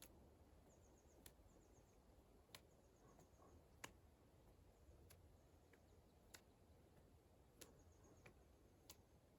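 Near silence, with faint sharp clicks at an even pace of about one every second and a quarter: a hard medicine ball tossed and caught hand to hand in around-the-body passes.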